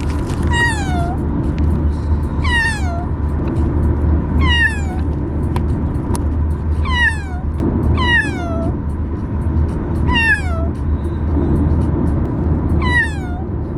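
Bengal kitten meowing seven times, each meow falling in pitch, a second or two apart, over the steady low rumble of a car on the road.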